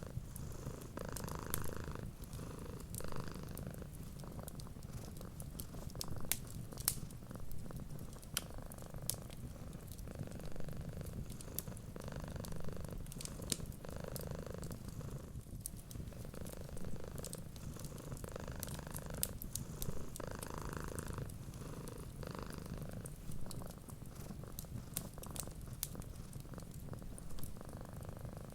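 Domestic cat purring steadily, with scattered sharp crackles from a wood fire.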